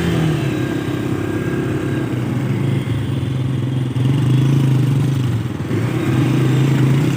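Motorcycle engine running steadily while riding, with wind noise on the microphone. The engine note dips briefly about five and a half seconds in, then picks up again.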